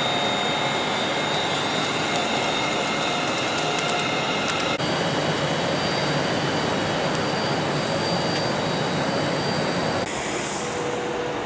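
Train in the station giving a steady hiss with high, steady whines from its electric equipment. The whine tones shift to new pitches about five seconds in and again near the end.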